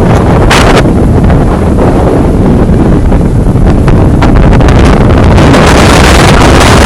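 Strong wind from Hurricane Ian buffeting the microphone: a loud, rumbling roar of wind noise that turns hissier as a gust builds about four seconds in.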